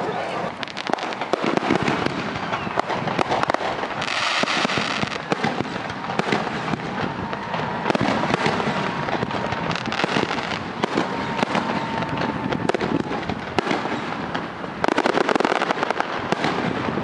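Fireworks display going off: a continuous run of crackling pops and bangs, with a hissing burst about four seconds in and a dense flurry of bangs near the end.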